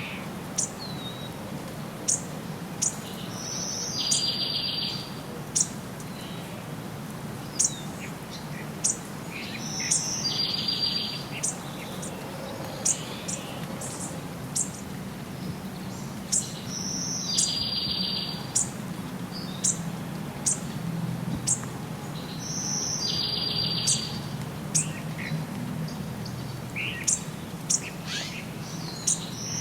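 Birds chirping: short, sharp high chirps about once a second, and a buzzy trill lasting about a second that repeats every six seconds or so, over a steady low background rumble.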